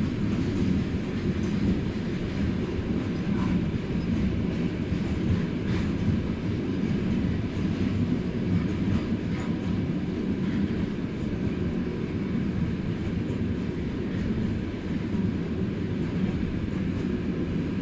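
Freight train's wagons rolling steadily past, a continuous low rumble of wheels on rails with a few faint clicks.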